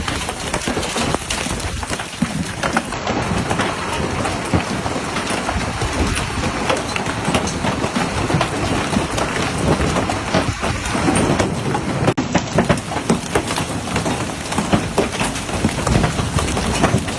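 Large hailstones pelting down on a lake in a severe storm: a loud, steady, dense clatter made of countless individual sharp hits.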